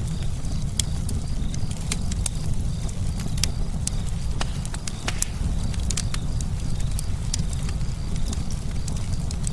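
Campfire burning, with irregular sharp crackles and pops of wood over a steady low rumble of the flames.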